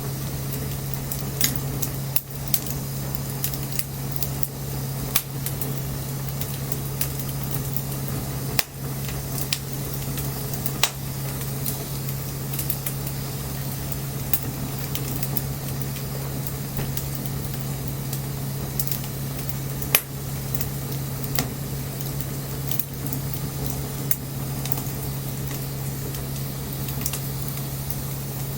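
Wood bonfire burning: a steady crackling hiss with a dozen or so sharp pops scattered through, the loudest about two-thirds of the way in, over a steady low hum.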